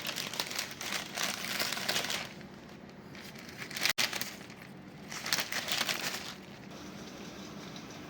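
Crinkling, rustling handling noise in several bursts, with a brief dropout about four seconds in.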